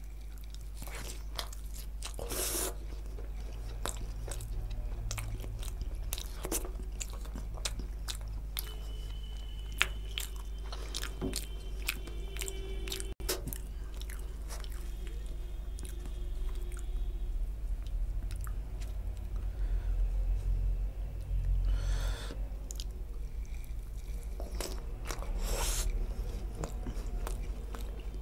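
Close-miked chewing of a mouthful of fried bhatura bread soaked in mutton curry gravy, with many small wet mouth clicks and a few louder stretches. A steady low hum runs underneath.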